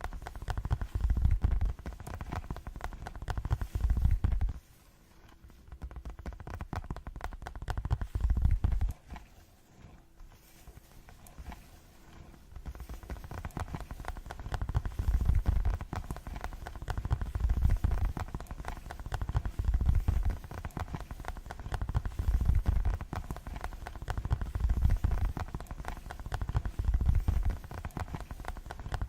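Fast ASMR tapping close to the microphone: rapid, dense taps that come in swells with deep, low thumps, softer and sparser from about five to thirteen seconds in.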